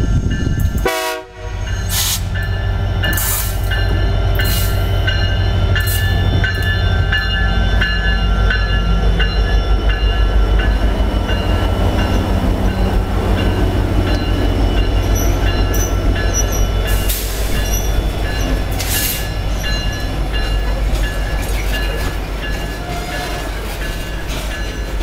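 Freight train passing close: the diesel locomotive's deep engine rumble with its horn sounding in the first half, then loaded hopper cars rolling by with wheel clatter and sharp clanks.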